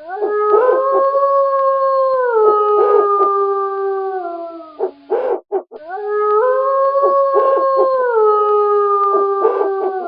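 A wolf howling twice, each howl about five seconds long. Each rises at the start, holds steady, steps down in pitch about halfway and slides lower as it ends. Short, sharp calls break in over the howls and in the gap between them.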